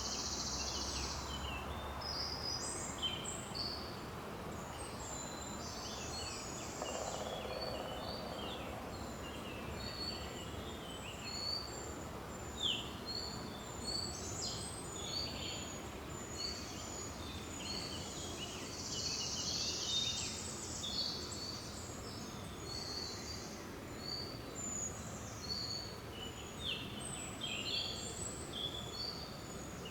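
Several songbirds chirping and trilling in short, frequent phrases over a steady rushing forest background.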